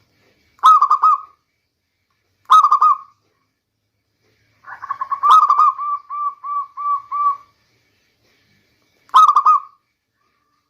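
Zebra dove (perkutut) cooing: four bouts of quick, rolling coos, the third a long string of about ten notes.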